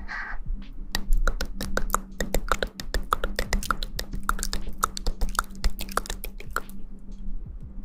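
Close-miked ASMR clicking and tapping: a rapid, irregular run of sharp clicks, several a second, starting about a second in and stopping shortly before the end.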